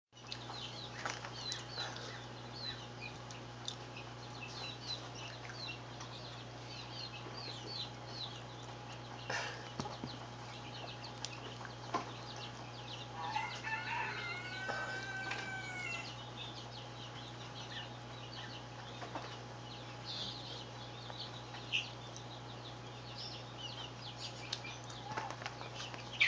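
Bird calls: many short high chirps scattered throughout, with a run of several arched, rising-and-falling calls a little past the middle, over a steady low electrical-sounding hum.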